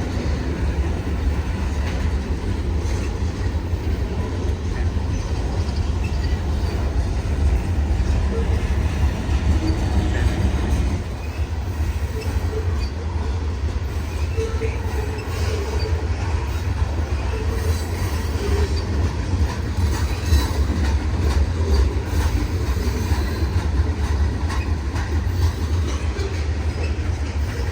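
Freight train cars rolling past with a steady low rumble from the wheels on the rails, and short wheel squeals now and then through the middle.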